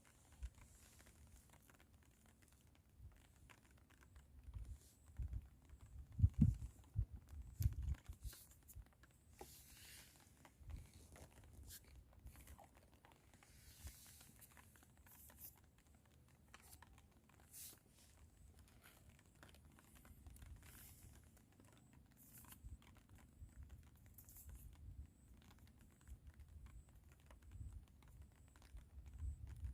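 Wind gusting against the microphone, rumbling in uneven bursts that are strongest about six to eight seconds in, with scattered small clicks and taps.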